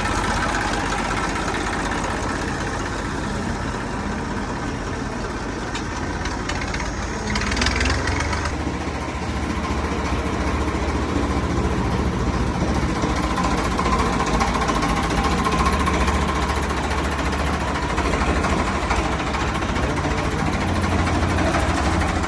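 Diesel tractor engine running with a knocking clatter. A brief hiss comes about seven seconds in, and the engine grows louder and deeper from about eight seconds on.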